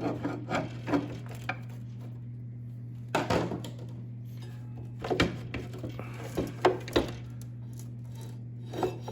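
A pry bar wedging at a snowmobile's chain case housing, giving irregular knocks and scrapes of metal: a few in the first second and a half, a cluster about three seconds in, several between five and seven seconds, and one more near the end.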